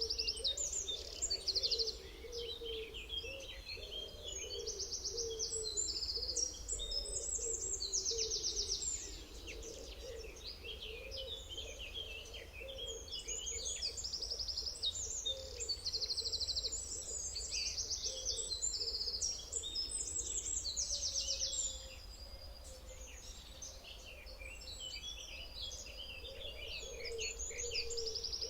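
Several songbirds singing at once: a dense mix of high chirps and fast rattling trills that overlap and keep on, with a softer, lower wavering call underneath.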